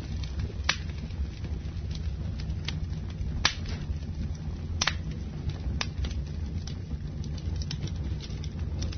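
Campfire burning: irregular sharp crackles and pops of the burning wood over a steady low rumble, the loudest pops about three and a half and five seconds in.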